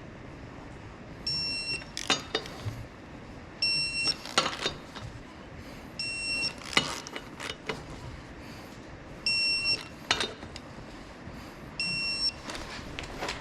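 Five short electronic beeps about every two and a half seconds, each followed at once by a quick cluster of sharp metallic clicks.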